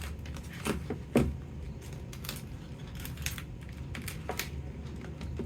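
Wiring connectors being unplugged and handled: a few sharp plastic clicks and light rattles, the loudest about a second in, over a steady low hum.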